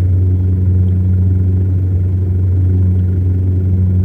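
Steady, loud low drone of a Saab 340's twin turboprop engines and propellers, heard inside the passenger cabin during the approach to landing.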